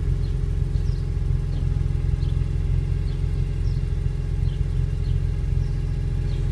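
2002 BMW M3's straight-six idling steadily, heard at the tailpipe: a quiet, even exhaust hum.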